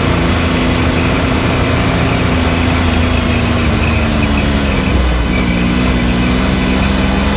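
Can-Am Maverick X3's turbocharged three-cylinder engine running steadily under way, with a steady whine; the engine note dips briefly about five seconds in and then picks back up.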